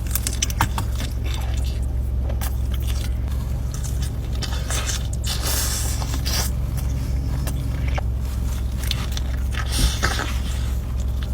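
Close-up eating sounds: pizza being bitten and chewed, with many short crunchy, crackly bites of crust, over a steady low hum.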